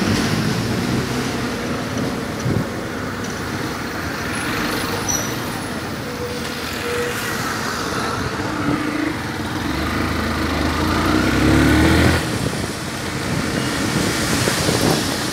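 Yamaha Factor 150 motorcycle's single-cylinder engine running on the move in city traffic, under wind and road noise. About nine seconds in the engine note rises as the bike accelerates, loudest just before twelve seconds, then drops back.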